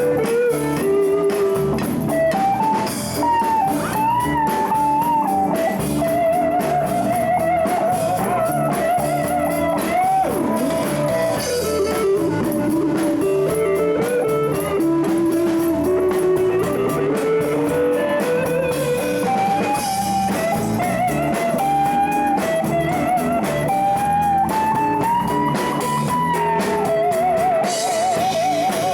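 Live blues jam: a lead guitar solos with string bends and long notes held with wide vibrato, over a full band with drum kit.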